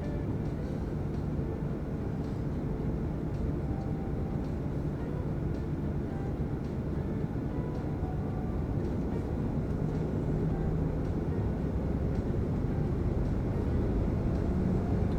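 Airliner cabin noise heard from inside the passenger cabin: a steady low rumble of the engines and the aircraft rolling on the ground, slowly growing louder toward the end.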